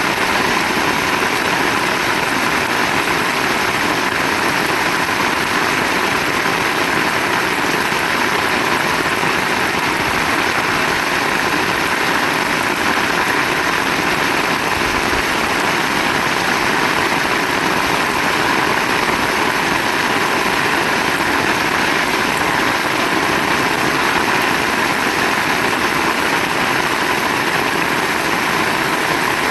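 Heavy rain pouring steadily, an even unbroken hiss with no let-up.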